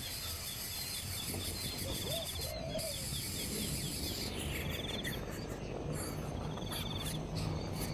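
Birds calling outdoors: a quick series of short, high chirps repeating over and over, a couple of lower, rounder calls about two seconds in, and a steady insect hiss underneath.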